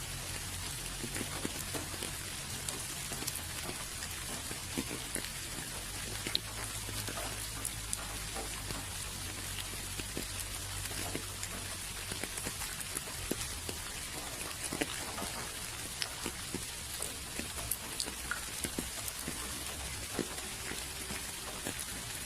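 Steady rain falling, an even hiss with many separate drops ticking close by. A low steady rumble runs underneath.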